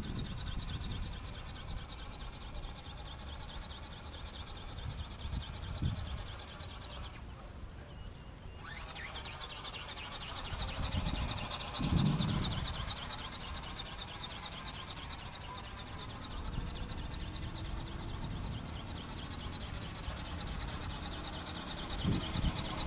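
Flapping-wing model bird (ornithopter) in flight: a steady high-pitched buzz with a rapid flutter, its tone sweeping as the model moves about, cutting out briefly about seven seconds in. Wind gusts on the microphone now and then.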